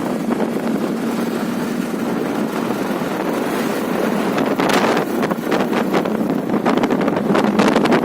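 Wind buffeting the microphone over the steady running noise of a motorcycle on the move, the gusts growing stronger and choppier about five seconds in.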